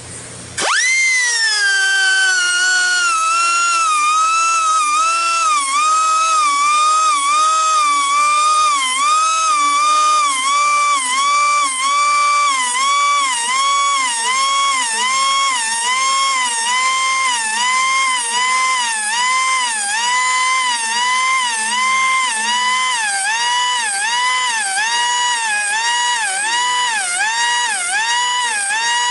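Air-powered grinder whining at high speed while sharpening a sawmill band blade tooth by tooth. Its pitch dips briefly about once a second as it bites into each tooth.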